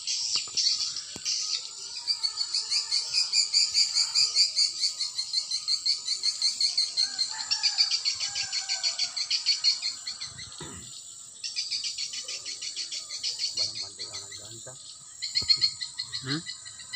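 Edible-nest swiftlets twittering: a dense, rapid stream of high chirps that thins out briefly about ten seconds in and again near fifteen seconds.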